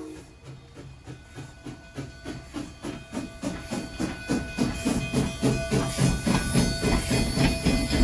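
Narrow-gauge steam locomotive working, its exhaust beating about four times a second and growing louder as it comes closer.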